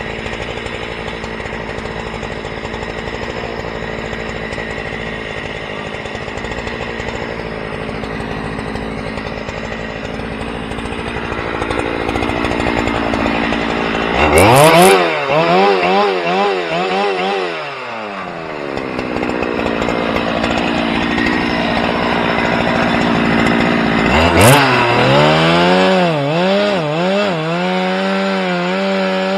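A small engine running steadily, then twice speeding up: each time its pitch climbs and then wavers up and down for several seconds.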